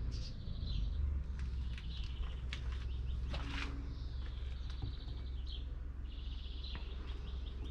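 Small birds chirping and trilling repeatedly over a low, steady rumble.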